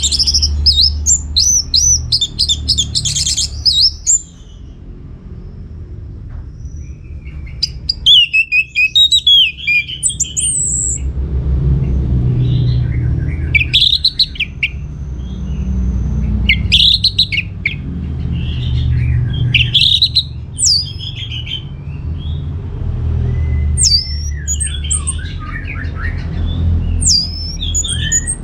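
Orange-headed thrush singing in bursts of quick, varied whistled phrases separated by short pauses, over a steady low rumble.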